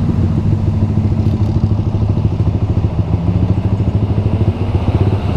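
Yamaha MX King 150's single-cylinder four-stroke engine running at a steady pace while riding, with an even, rapid pulsing of the exhaust beat.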